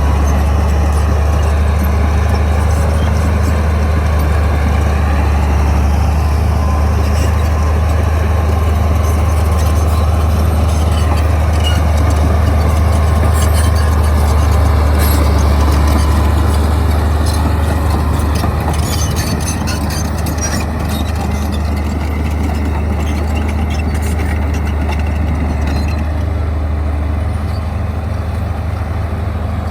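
Crawler bulldozer's diesel engine running steadily, a loud low drone with a wavering higher whine above it. It eases off slightly about two-thirds of the way through.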